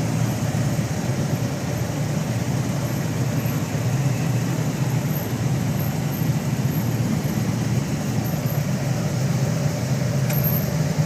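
Motorcycle engines running steadily, a continuous low engine sound without revving.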